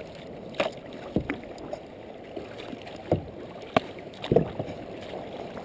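Kayak paddle blades splashing into the water in quick strokes, over a steady rush of water and wind.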